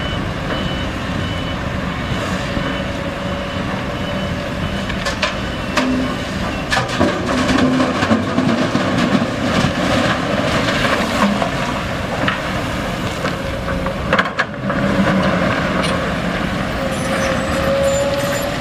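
Heavy diesel engine running with its pitch rising and falling under load, a reversing beeper pulsing at the start, and scattered clanks and knocks from the machinery.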